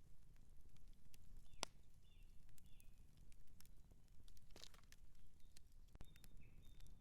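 Outdoor campfire crackling: irregular sharp pops and snaps of burning wood over a soft low rumble of the flames, with a few short high chirps in the background.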